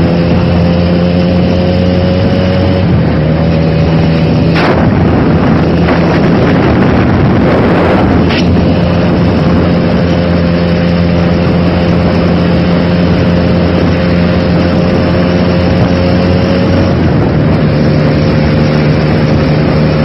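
A motor engine running steadily and close, loud throughout, its pitch shifting slightly about three seconds in and again near the end, with two short sharp knocks about five and eight seconds in.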